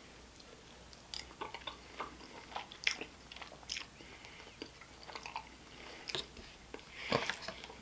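Close-miked chewing of a mouthful of pozole, faint soft wet clicks and mouth sounds, and a louder rattle near the end as a metal spoon goes into the plastic soup cup.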